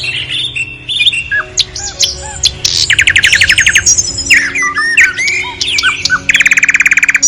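Birds chirping and calling, with two rapid rattling trills, one about three seconds in and one near the end, over steady background music.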